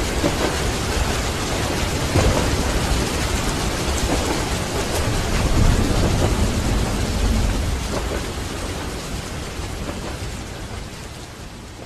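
Steady heavy rain with low rolling thunder, swelling twice, then fading out over the last few seconds.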